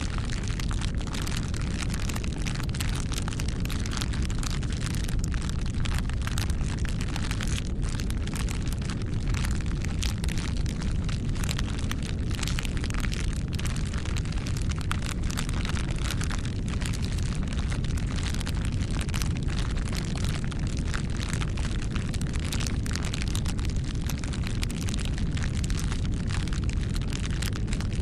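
Wood fire burning: a steady low rumble of flames with frequent small crackles and pops throughout.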